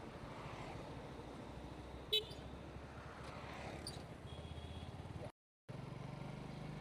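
Motorcycle engine running under way with road noise, and a short horn beep about two seconds in. Near the end the sound cuts out for a moment, then the engine's steady hum comes back.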